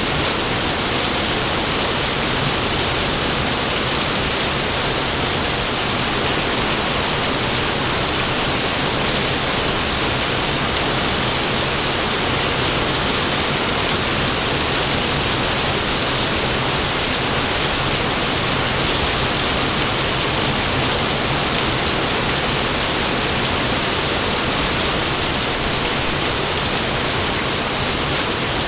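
Heavy rain pouring in a steady, even hiss.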